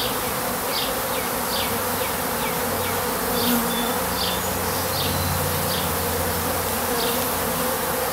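Honey bees humming steadily from an open top-bar hive, with short high chirps repeating about once or twice a second.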